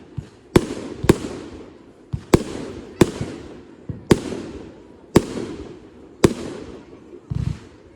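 Retail fireworks bursting in a display: a string of about seven sharp bangs, each trailing off, with a duller, lower thump near the end.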